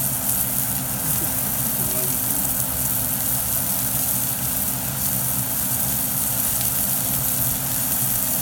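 Salmon frying in a pan: a steady high sizzle with faint crackles over a constant low hum.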